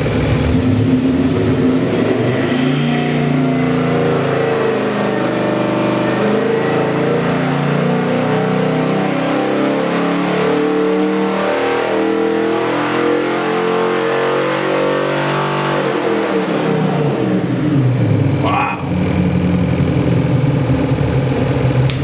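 Ford 427 Windsor small-block V8 with multi-port fuel injection running on an engine dyno. The revs climb over the first few seconds and are held high for about twelve seconds, then fall back to a lower steady speed. A brief rising whistle comes near the end.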